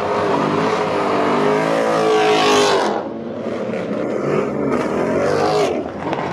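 Sports car engine accelerating hard away from the meet. It revs up through a gear, drops sharply on an upshift about three seconds in, then climbs again to a second shift near the end.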